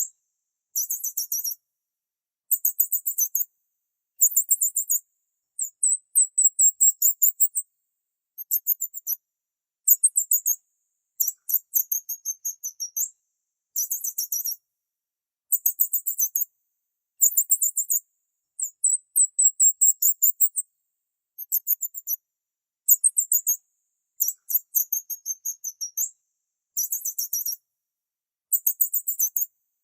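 Bird chirping in very high, thin, rapid trills about a second long, repeating every one to two seconds with clean silence between bursts.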